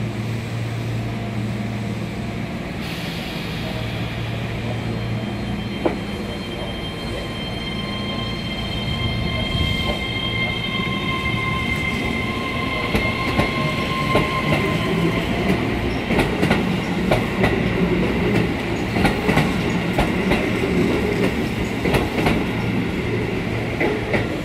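Keihan 13000 series electric train pulling out. Its traction inverter and motors whine at first, then the whine fades and the wheels clack over rail joints more and more often as it gathers speed.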